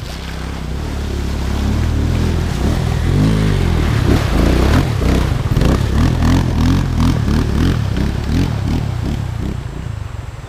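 Dirt-bike engine revving through a shallow river crossing: the revs build, sweep up and down once, then blip up and down about twice a second, with water splashing, and fade near the end.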